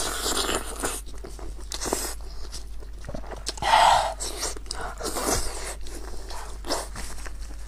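Close-up eating sounds of a person biting and chewing braised sheep's head meat: wet smacking and short crunchy clicks, with one brief louder sound about four seconds in.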